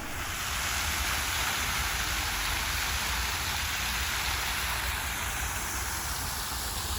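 Steady rushing of water, an even hiss with a low rumble underneath.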